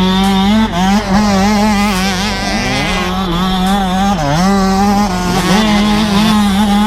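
Motocross bike engines running hard at high revs, the pitch wavering and dropping briefly a few times as the throttle is chopped and reopened.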